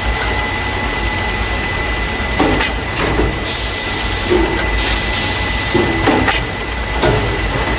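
Carton caser, the machine that moves paper juice or milk cartons into plastic crates, running. A steady hum carries a constant high whine, with clacking knocks at uneven spacing and two short hissing bursts around the middle.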